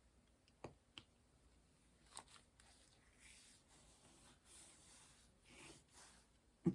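Faint handling sounds of diamond painting: a few small clicks, then soft rustling, with a louder knock at the end.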